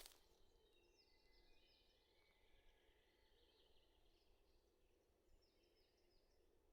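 Faint birdsong in a quiet forest: runs of short, high notes falling in pitch, about a second in and again near the end.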